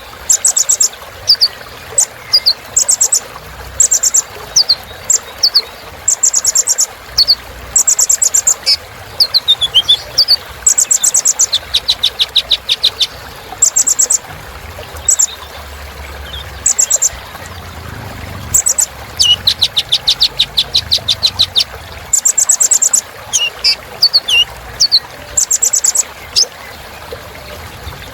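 Brown-throated sunbird (kolibri ninja) singing, in loud high-pitched phrases of rapid ticking trills and short downslurred notes, repeated with brief pauses between them.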